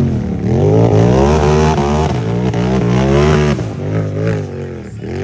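Unlimited-class race UTV engine revving hard under load, its pitch surging up and down every half second or so as the throttle works, then dropping back somewhat in loudness about three and a half seconds in.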